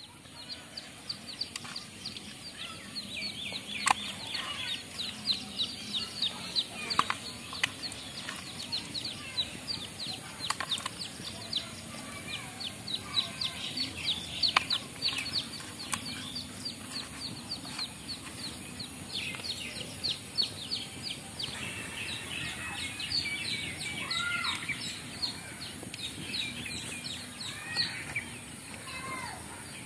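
Birds chirping: a constant stream of quick, high chirps, with a few lower calls in the later part and occasional light clicks.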